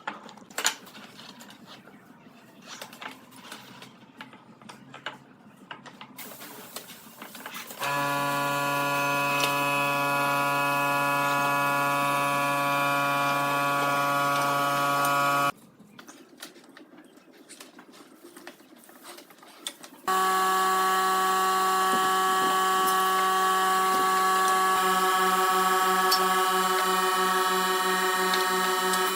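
An electric power tool's motor running at a steady whine, starting about eight seconds in and cutting off about seven seconds later, then starting again at a higher pitch for the rest. Light knocks and taps of workpiece handling come before and between the runs.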